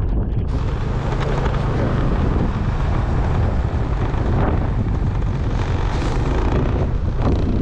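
Motorbike engine running steadily while riding, under a heavy rush of wind on the microphone that swells up about half a second in.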